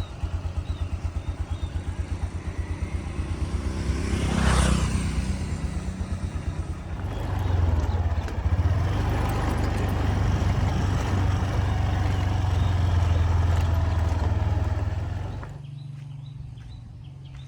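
A motor or engine running: first a low, rapid pulsing that swells briefly about four and a half seconds in, then a steadier low drone that cuts off about fifteen and a half seconds in.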